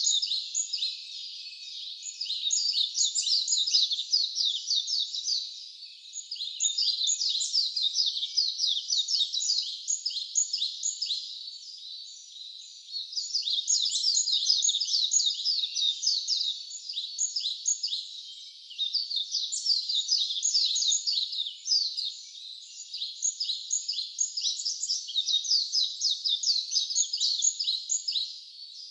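A chorus of high-pitched wildlife calls: rapid chirps repeated many times a second in phrases several seconds long, broken by short pauses.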